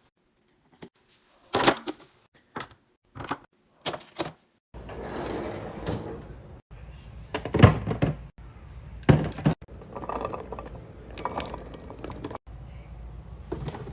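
Hard objects being set down and handled: a series of sharp knocks and thunks. A steady low hum runs beneath them from about five seconds in.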